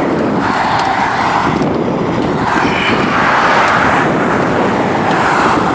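Steady rushing noise of a bicycle ride: wind buffeting the camera microphone mixed with traffic noise from a nearby freeway, swelling and easing a few times.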